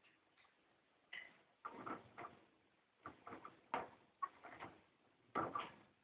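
A parrot scuffling in its cage: several short bursts of clicking and tapping, irregularly spaced, a couple of them with a brief squeak.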